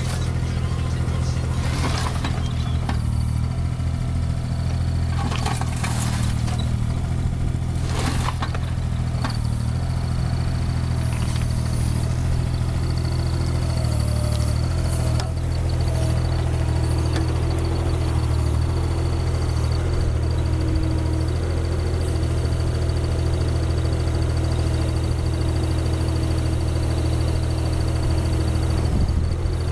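An engine running steadily at a constant speed, with a few sharp knocks in the first ten seconds.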